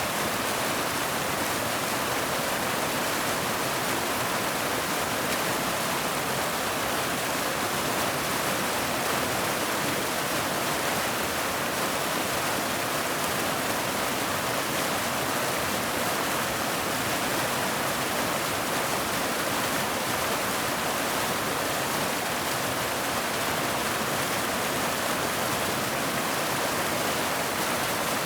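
Waterfall: a steady, unbroken rush of falling water, with no changes.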